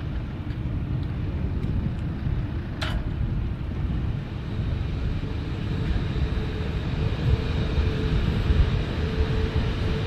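An engine running steadily with a low rumble. A faint whine comes up in the second half, and there is a sharp click about three seconds in.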